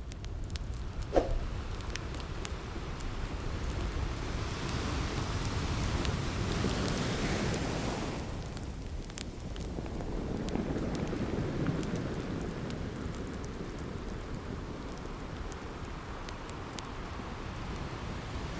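Ocean waves surging and easing in slow swells, with a wood fire crackling over them: many small crackles and one sharp pop about a second in.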